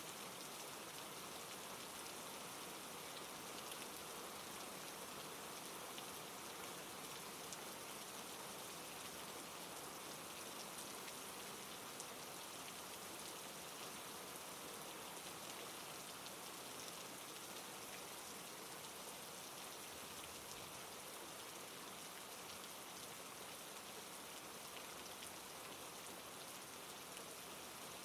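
Steady, soft rain: an even hiss with faint scattered drop ticks and no change throughout.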